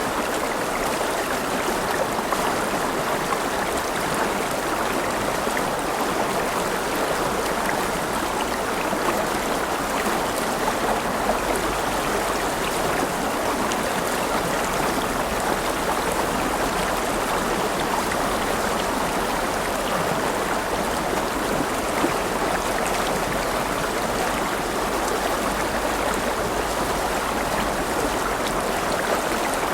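River water flowing over stones: a steady rushing and babbling.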